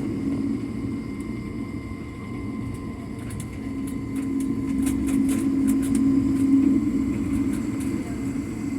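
Jet airliner cabin noise on the ground: the steady drone of the engines and air system with a low hum, and light clicks and rattles from the cabin, swelling a little in the middle.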